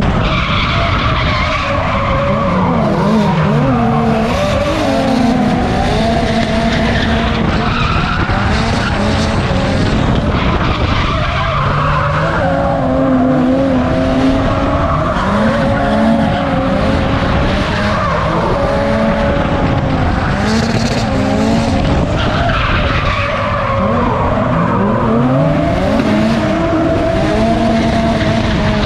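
Drift cars' engines revving up and down continually, with tyres skidding and squealing as they slide.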